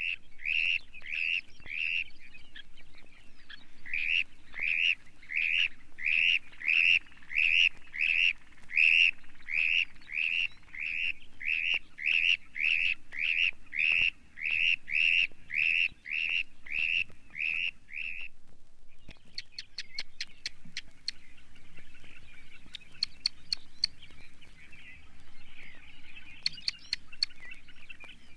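Dunlin calling: a long series of buzzy, arched calls, about two a second, that stops about 18 seconds in. After a short gap comes a fainter, denser chatter of calls with scattered small clicks.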